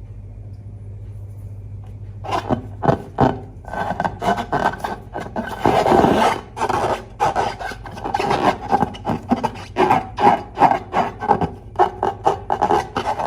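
Slime worked by hand, making quick, irregular squishing and rubbing sounds that start about two seconds in and grow denser.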